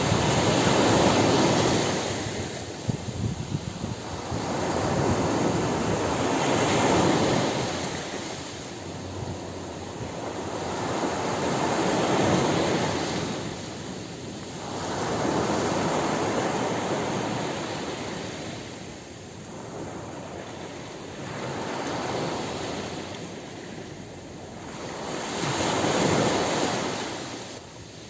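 Ocean surf breaking on a beach, each wave swelling to a rushing crash and washing back, rising and falling about every five to six seconds.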